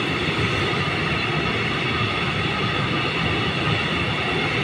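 Container freight train's wagons rolling past close by: a steady rumble of wheels on the rails, with faint steady high tones over it.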